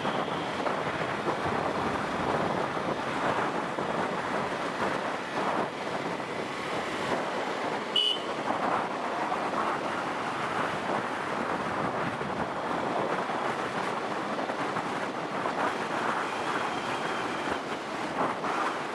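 Steady rush of wind and road noise on a moving motorbike, with a sharp click about eight seconds in.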